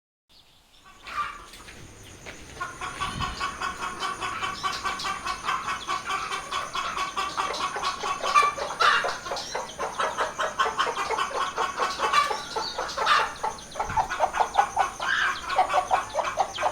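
Chickens clucking: a dense run of short, quick clucks with a few louder calls, starting about a second in after silence.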